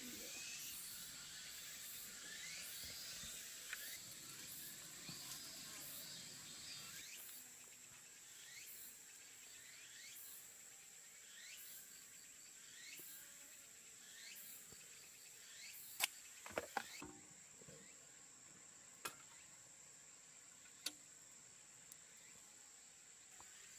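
Faint outdoor ambience: a steady high-pitched drone with a short falling chirp repeating about once a second, typical of insects or crickets. A few sharp clicks come in the second half.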